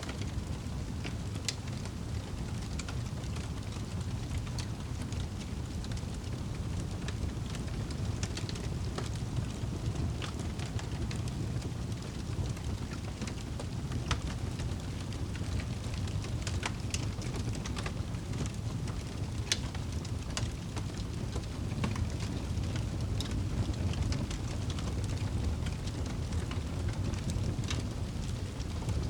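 Wood fire burning in a fireplace: a steady low rush with frequent sharp crackles and pops scattered irregularly throughout.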